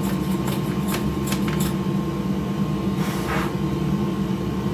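A steady machine hum runs under light clicks of plastic console parts being handled, with a short hiss about three seconds in.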